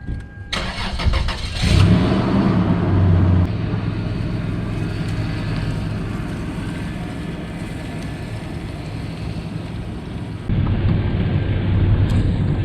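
Car engine cranking and starting about half a second in, then running with a steady low hum. The sound changes abruptly near the end.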